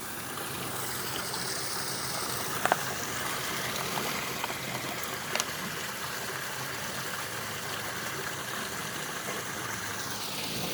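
Small spring of water running and trickling steadily toward a drain, with a couple of faint clicks.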